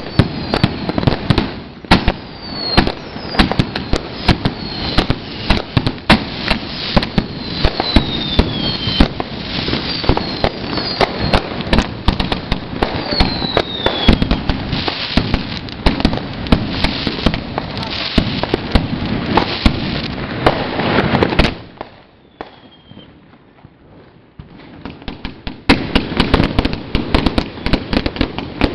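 Fireworks cake firing a rapid barrage of bangs and crackles, with several falling whistles; it drops off for a few seconds about three-quarters through, then the bangs start again.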